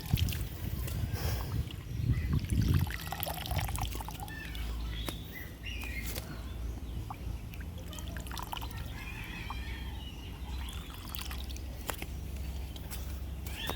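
Water trickling and pouring, with scattered small splashes and clicks.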